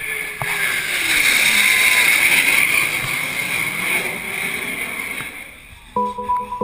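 A powerboat running past, a rushing engine and water noise that swells and then fades, with a falling pitch early on. Music starts near the end.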